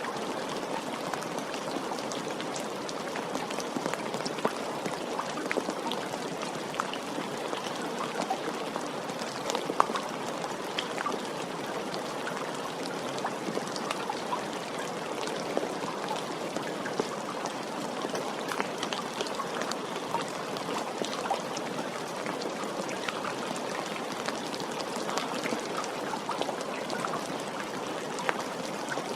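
Steady rain falling, a continuous wash with many individual drops ticking and pattering on a hard surface, scattered sharper drips standing out now and then.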